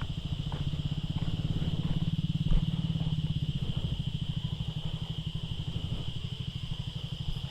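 Motorcycle engine running at low revs with an even, rapid beat, over a steady high-pitched hum. A single low thump stands out about two and a half seconds in.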